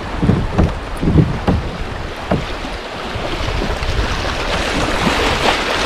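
Wind buffeting the microphone over water moving around a kayak's hull, with irregular low thumps early on and a rushing noise that grows louder in the second half.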